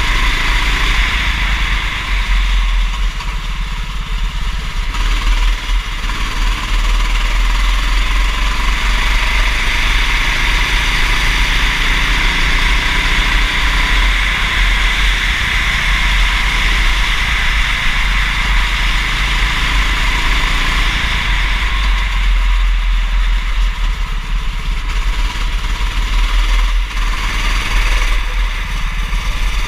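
Kart engine running continuously at racing pace, its pitch rising and falling with the throttle, under a steady loud hiss.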